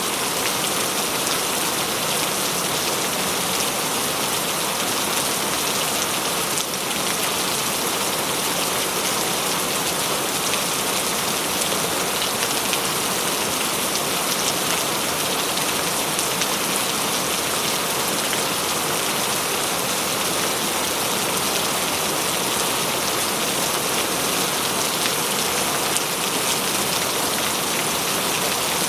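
Steady rainfall, drops pattering densely on a surface in an even hiss, with no thunder.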